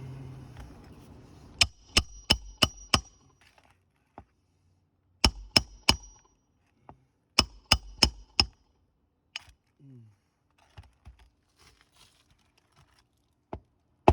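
Hammer driving roofing nails into asphalt shingles: three runs of quick blows, about three a second, each hit with a short metallic ring. These are nails the roof snake left standing, hammered flush by hand.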